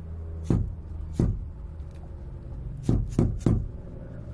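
Hammer blows on a failing in-tank electric fuel pump, struck to jar the stuck pump into running: two knocks, a pause, then three more in quick succession, over a steady low hum.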